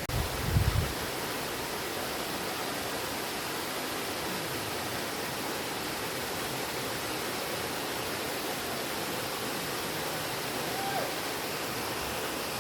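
Steady, even rush of Argyle Waterfall, a tall cascade pouring into a deep pool. A brief low rumble lasting under a second comes in right at the start.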